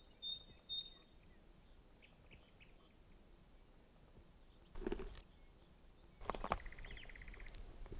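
Quiet woodland birdsong: a few short, high chirps in the first second and a fast pulsed trill later on. Two brief low sounds come near the middle.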